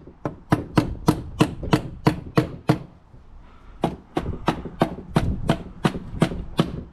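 Tool work on a Honda CBR600RR engine: a run of sharp, evenly spaced taps, about three to four a second, each ringing briefly, with a pause of about a second near the middle.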